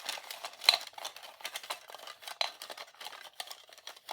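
A bunch of numbered sticks clattering together in a quick, irregular run of light clicks as they are shaken to pick one.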